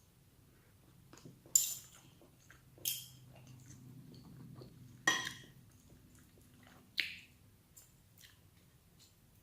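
Eating sounds: a person chewing at a meal, with scattered sharp clicks and clinks of utensils on a plate and of the mouth, and four louder ones spread through.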